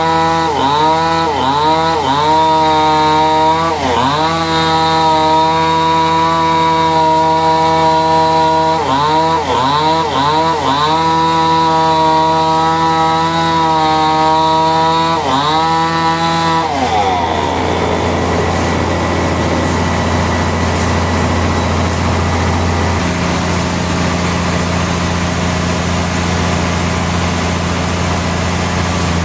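Engine-driven timber saw cutting wood. Its pitch repeatedly dips sharply and recovers, as under cutting load. About 17 seconds in, the clear tone gives way to a rougher, noisier steady running sound.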